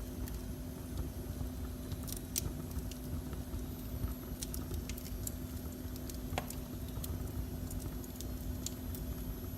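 Wood fire burning in a fireplace, with scattered small crackles and pops over a steady low hum, and one louder pop about six seconds in.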